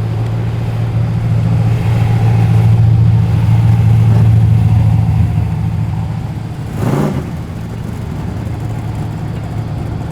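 Car engine running as the car rolls slowly past, a steady low note that grows louder and then fades. There is a short rev about seven seconds in.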